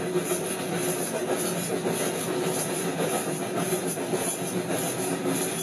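Train running on rails: a steady rumble and rail noise.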